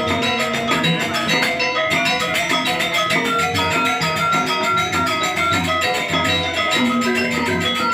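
Balinese gamelan playing: bronze metallophones struck in a dense, steady stream of ringing notes over lower tones, without a break.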